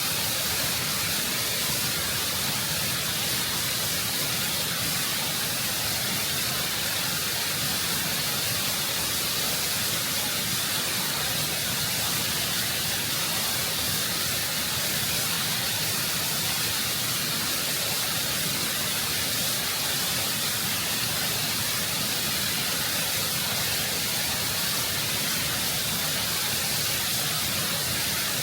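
Close-up waterfall: water cascading over rock in a steady, full rush, its hiss strongest in the high range, with no change in level.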